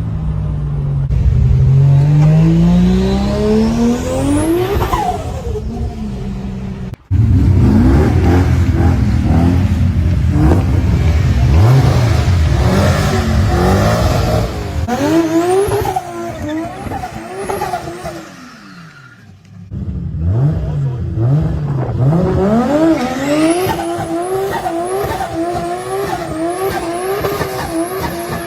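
Turbocharged car engines revving hard through the gears and lifting off between pulls, with turbo flutter on the lift. There are three clips in a row: one long climbing rev that drops away, a busy run of repeated rises and falls, then a rev build that ends in quick repeated pulses.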